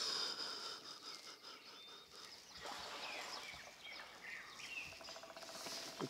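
Quiet outdoor ambience with faint bird chirps, and a short rapid trill near the end.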